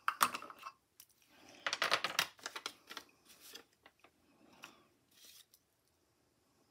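Paper banknotes and envelopes being handled: crisp rustling and crinkling in a few short bursts, loudest near the start and around two seconds in, then a few light rustles and clicks.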